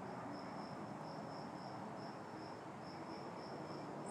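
Insects chirping in the evening: a steady series of short, high, even chirps, about two to three a second, over a low steady background hum.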